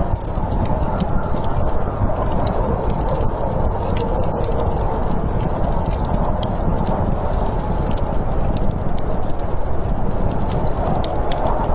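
Wood fire crackling with scattered irregular pops and snaps over a steady rushing noise of snowstorm wind.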